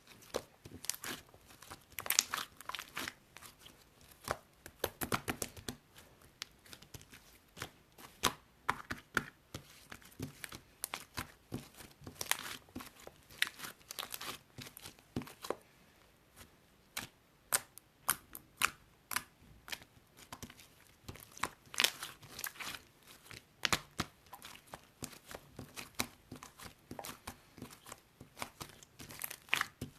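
Irregular crinkling and crackling of a thin material being handled, in clusters of quick sharp crackles with brief pauses between them.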